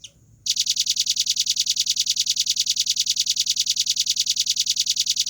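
Velvet-fronted nuthatch (rambatan paruh merah) giving a brief call, then a long, fast, even trill of high notes, about ten a second, lasting nearly five seconds and stopping abruptly.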